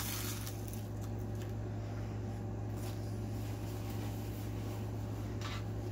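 Close-miked eating: a brief crunchy bite right at the start, then quiet chewing and mouth sounds, with a faint rustle near the end, over a steady low electrical hum.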